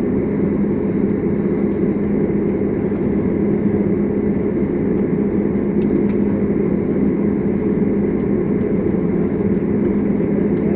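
Steady low hum of an airliner's jet engines and air system inside the passenger cabin, with the engines at low power and not yet spooling up for takeoff.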